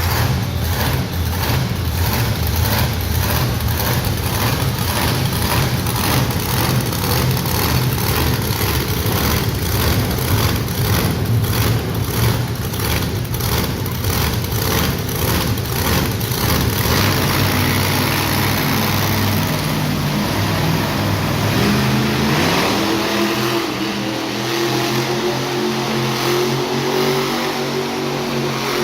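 Monster truck engine running loud under throttle as the truck spins donuts, climbing in pitch as it revs up about three-quarters of the way through.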